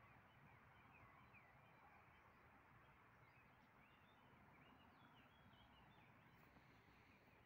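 Near silence with faint songbirds chirping: short, scattered high chirps all through, over a low steady outdoor hiss.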